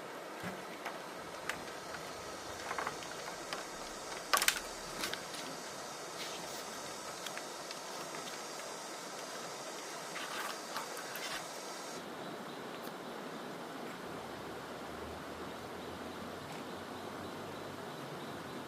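Steady background hiss with a few scattered sharp knocks and clacks, the loudest about four and a half seconds in and a small cluster near the ten-to-eleven-second mark.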